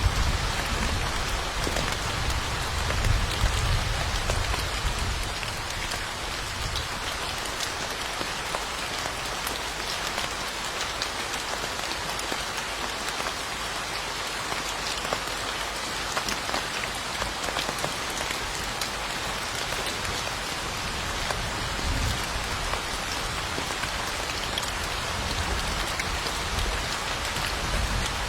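Steady rain falling, with scattered individual drops ticking through it. A low rumble of thunder dies away over the first few seconds.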